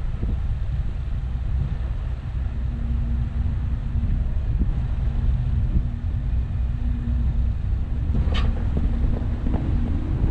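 Vehicle engine running, with wind buffeting the microphone as a heavy low rumble. A steady hum comes in a couple of seconds in, and there is one sharp knock about eight seconds in.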